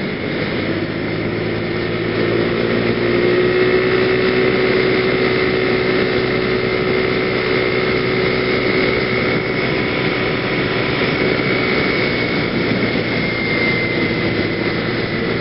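Genuine Buddy 125 (PGO BuBu) scooter's 125cc single-cylinder engine running at a steady cruise, climbing a little in loudness over the first few seconds and then holding, with a steady hiss of wind and road noise on a helmet-mounted microphone.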